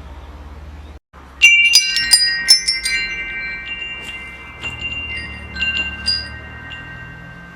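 Metal wind chimes struck in a quick cluster about a second and a half in, the tubes ringing on at several steady pitches. A few lighter strikes follow later.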